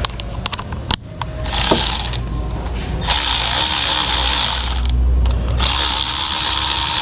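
Power ratchet running in three bursts, driving in and tightening the bolts on the engine's ignition coil and cover after new spark plugs are fitted; the last burst runs on past the end.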